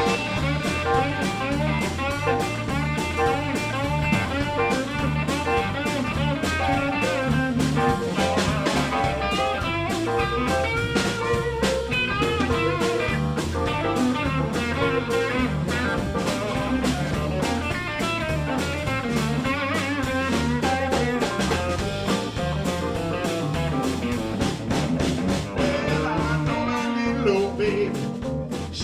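Live electric blues band playing: electric guitar with bending notes over bass, keyboards and a steady drum-kit beat.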